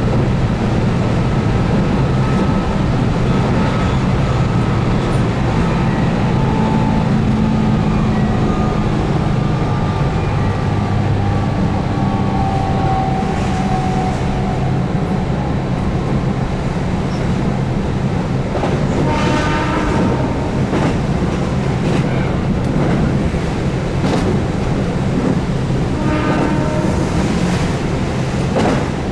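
Keihan 8000 series electric train running at speed, with the hum of its DC traction motors and the steady rumble of wheels on rail. A faint motor whine falls slowly in pitch over the first half, and short pitched sounds ring out briefly about two-thirds of the way through and again near the end.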